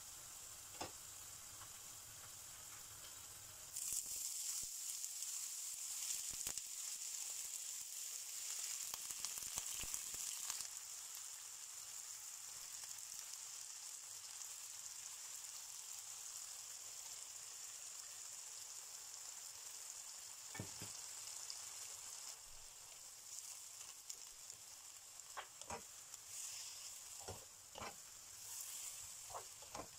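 Olive oil sizzling in a nonstick frying pan, first around garlic cloves, then much louder from about four seconds in as mixed seafood (mussels, squid rings, shrimp) fries in it. From about twenty seconds on, a spatula knocks and scrapes against the pan as the seafood is stirred.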